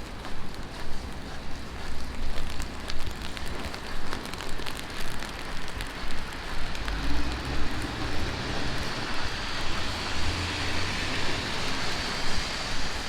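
Heavy rain falling and spattering on the street, with fine drop clicks throughout. About halfway through, a vehicle's low rumble comes in and the hiss of tyres on the wet road grows louder.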